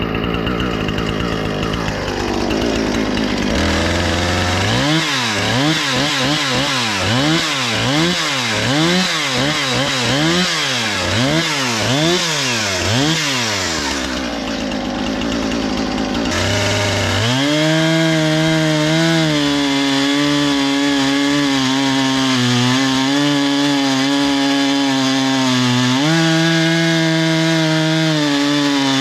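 Husqvarna 460 Rancher two-stroke chainsaw revving up and down repeatedly, about once a second, then held at a steady high speed with small dips in pitch.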